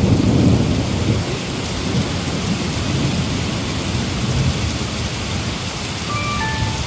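Heavy rain falling steadily, with a low rumble of thunder at the start that dies away over the first second or so.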